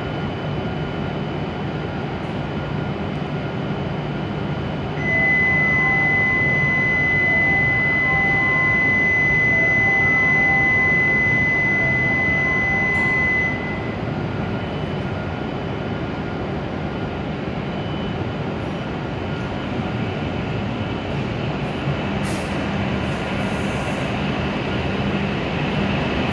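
W7 series shinkansen standing at the platform with a steady low hum. About five seconds in, a loud, steady, high electronic tone, the platform's departure signal, sounds for about eight seconds and cuts off. Near the end the train starts to pull out, and its running noise builds.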